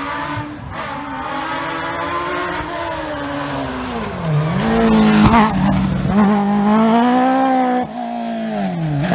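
Rally car engine at full throttle on a dirt stage. The revs climb, dip sharply at a gear change about four seconds in, then climb again as the car comes close and gets louder. Near the end the driver lifts off as the car brakes and the engine note drops.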